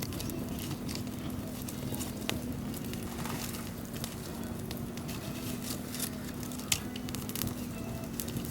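Chicken pieces cooking in a hot pan, crackling and sizzling with scattered sharp pops over a steady low hum.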